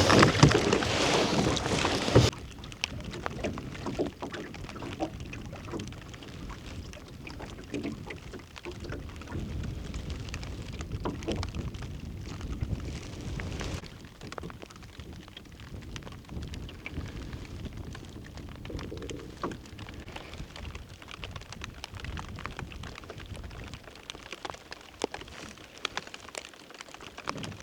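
Wind buffeting the microphone for the first couple of seconds, then after a sudden cut a steady rain hiss with many scattered small drops ticking.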